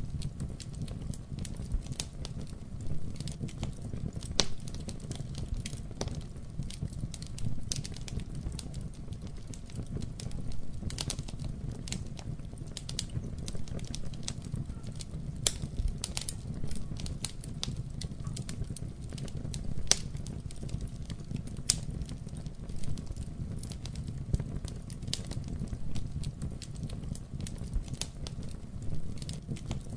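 Wood fire crackling in a fireplace: a steady low rumble of flames with irregular sharp pops and snaps, a few louder ones standing out.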